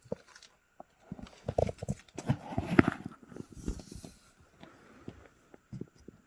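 Horses' hooves clopping and knocking irregularly on hard ground, a dense clatter through the middle that thins to scattered single knocks near the end.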